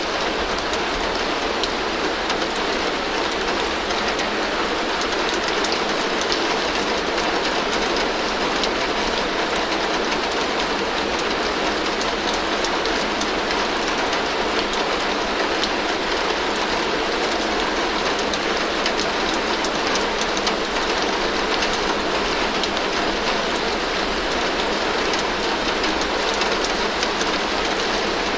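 Heavy rain falling steadily on a tin roof: an even, unbroken hiss of rain on metal, with many fine drop ticks and no pauses or changes.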